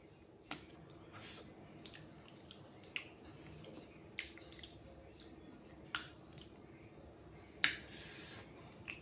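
Close-miked eating sounds: sharp, wet lip-smacks and chewing clicks from a mouthful of rice and egg, coming every second or two, with the loudest smack near the end.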